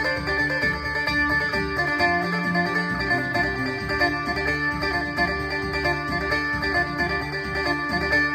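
Amplified Isan phin (Thai plucked lute) playing a quick picked melody over steady drone tones, heard through a Boss amplifier.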